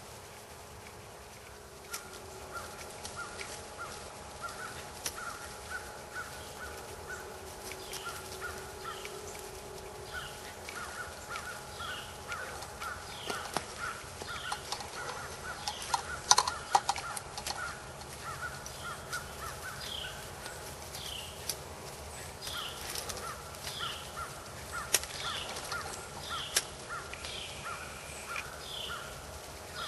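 Wild birds calling: a long run of short, rapidly repeated calls, with high descending chirps every second or so. A few sharp clicks or knocks come about halfway through.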